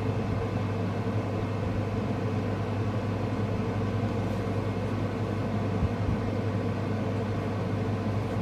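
A steady low mechanical hum with a faint hiss, unchanging throughout, such as a motor or fan running in the room.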